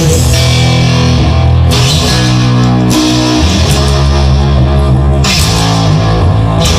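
Loud instrumental rock passage led by guitar, with no singing.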